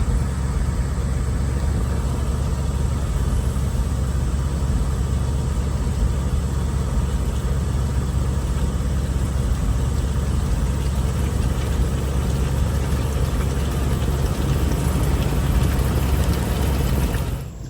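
Vehicle engine running steadily with a low rumble, cutting off abruptly just before the end.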